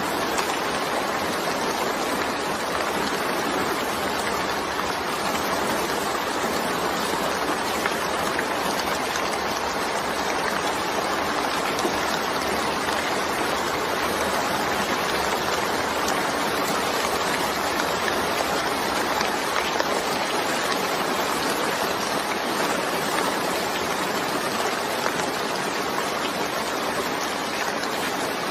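Steady rain falling: a dense, even hiss of drops that keeps the same level throughout.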